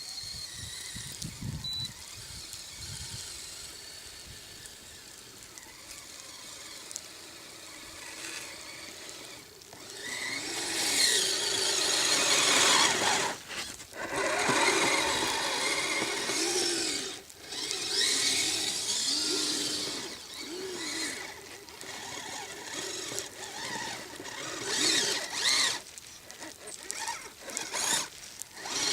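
Kyosho Blizzard SR radio-controlled snowcat's electric motor and geared drivetrain whining in repeated bursts of throttle. The pitch rises and falls, with short pauses between bursts. It starts about a third of the way in, after a quieter stretch.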